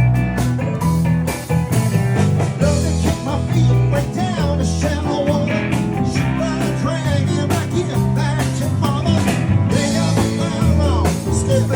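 Live band playing blues-rock: drums, bass and electric guitar, with bending lead lines over a steady beat.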